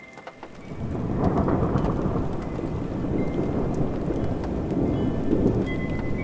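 Steady rain with a long roll of thunder that swells in about a second in and rumbles on.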